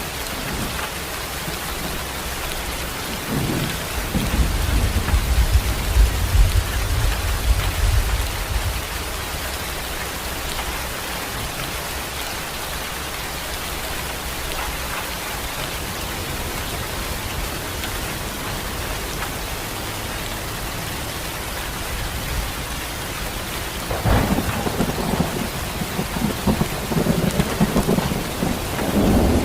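Steady rain falling, an even hiss, with low rumbles of thunder: one from about four to nine seconds in, and a louder one in the last five seconds.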